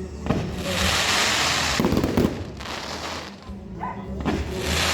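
Fireworks going off: two long hissing stretches, each about two seconds, with a few sharp bangs among them.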